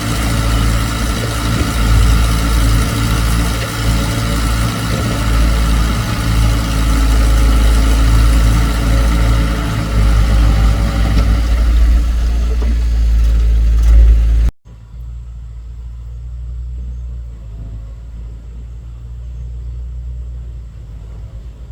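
An excavator's diesel engine running loud with a heavy rumble. About two-thirds of the way through it cuts off abruptly to a much quieter, steady engine hum.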